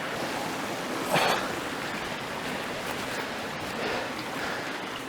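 Woodland stream running steadily over rocks, with one short scuffing sound about a second in.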